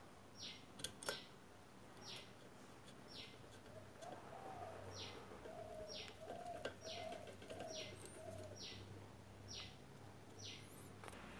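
Faint birdsong. One bird repeats a short high note that drops in pitch, about once a second. Through the middle, a lower run of about six notes joins it, and a couple of light clicks come near the start.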